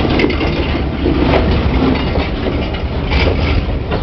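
Railway train: a steady low rumble with a few faint clicks.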